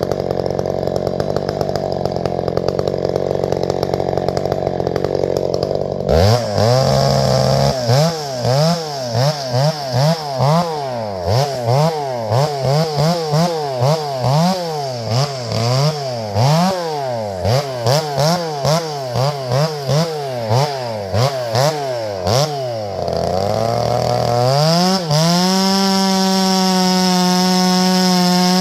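Two-stroke chainsaw running, then revved up and down over and over, about one and a half times a second, for some fifteen seconds. Near the end it climbs to a steady high rev and holds there.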